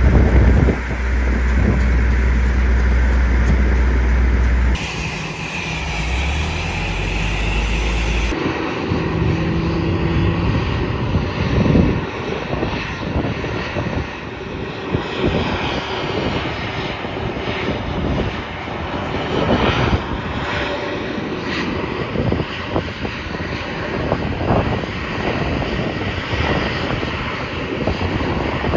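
Aircraft engine noise from an airliner at the airport, a loud, steady, rough rush with uneven swells. The sound changes abruptly twice in the first eight seconds, where the recording is cut.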